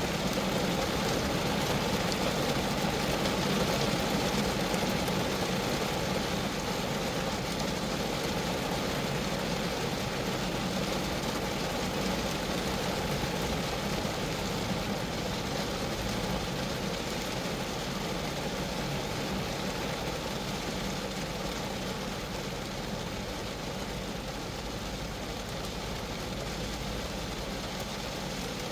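Steady rain falling on a Geo Metro, a dense even patter of drops on the car's body, easing slightly toward the end.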